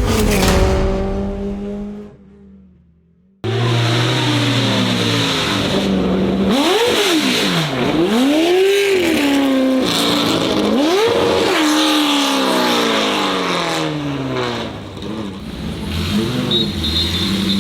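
Oilstainlab Half 11's LS V8 engine, straight-piped and loud. It falls in pitch and fades away, then cuts in suddenly a few seconds in, revving hard. The revs climb and drop sharply several times under acceleration and lift-off, then run more steadily.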